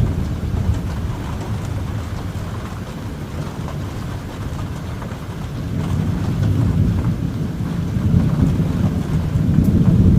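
Thunder rumbling, dying down toward the middle and building again in the second half.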